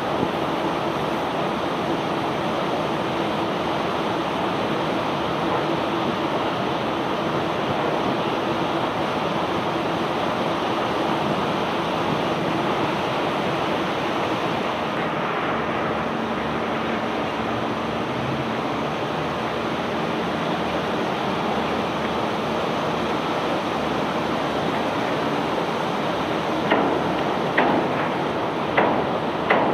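Steady rushing, rumbling noise from a self-unloading barge discharging cobblestones, with several sharp knocks near the end.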